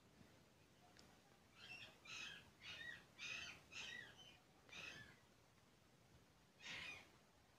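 Near silence, with faint short harsh bird calls in the background: a string of about six calls between two and five seconds in, and one more near the end.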